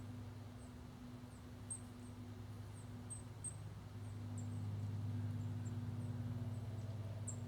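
Small songbirds giving quick, high, thin chip notes, more than a dozen scattered through. Under them runs a steady low drone that grows louder about four seconds in.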